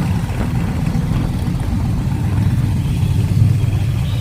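Car engine running with a steady low exhaust rumble.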